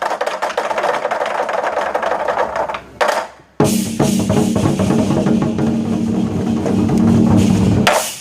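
Chinese war drums beaten in a fast, dense roll, broken by a sharp hit and a short pause about three seconds in, then a second long roll ending on a final stroke near the end.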